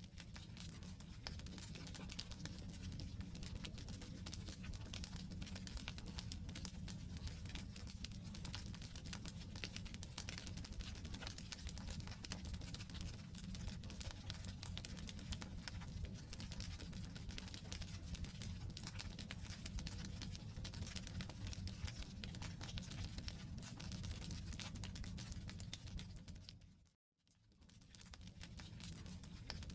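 Wood campfire crackling and popping with dense irregular snaps over a steady low rumble. The sound cuts out for a moment near the end and fades back in.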